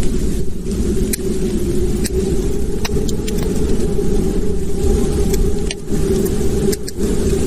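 Wood fire burning in a fireplace: a steady low rumble of the flames with scattered sharp crackles and pops, several a few seconds apart.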